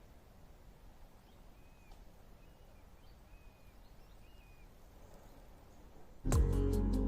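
Quiet outdoor ambience with a few faint, short bird calls. Music starts abruptly about six seconds in and is the loudest sound.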